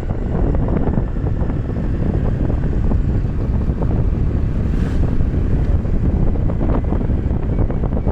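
Wind buffeting the microphone on a moving bike: a loud, steady low rumble.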